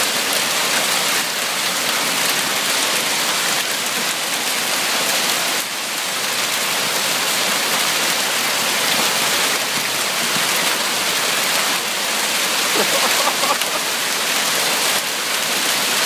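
Hailstorm: hailstones pelting down hard in a dense, steady clatter.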